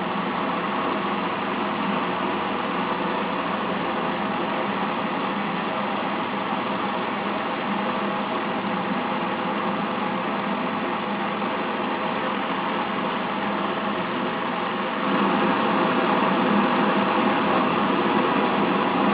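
A gamma Stirling engine running with a steady mechanical noise, getting somewhat louder about fifteen seconds in.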